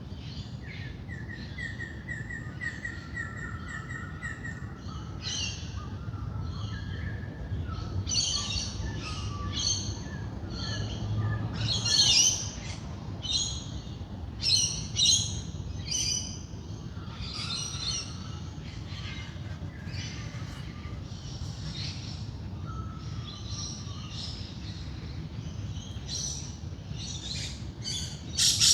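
Dawn chorus: several wild birds calling and singing at once, with many short chirps and trills and a fast run of repeated notes in the first few seconds, over a steady low rumble.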